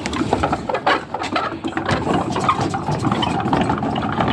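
Buddhist prayer wheels being spun one after another, a steady rattling and clicking as they turn on their spindles.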